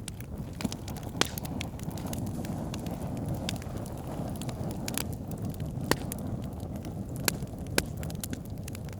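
Wood campfire burning: a steady low rush of flames with irregular sharp crackles and pops of burning wood, a few louder pops standing out.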